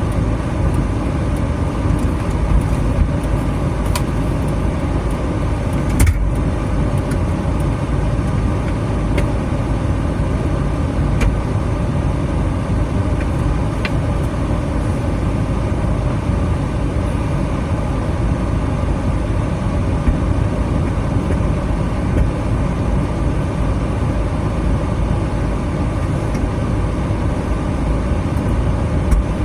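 Steady road and engine rumble of a moving minivan heard from inside the cabin, with a few faint clicks and knocks now and then.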